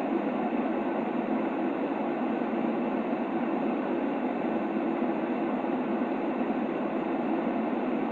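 Steady shaped noise for a baby's sleep, a constant even hiss weighted toward the low-middle range, with no change or rhythm.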